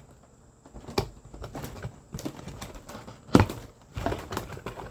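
Cardboard box and packaging being handled as a toy truck is worked out of it: scattered knocks and taps with light rustling, a sharp knock about a second in and a louder one about three and a half seconds in.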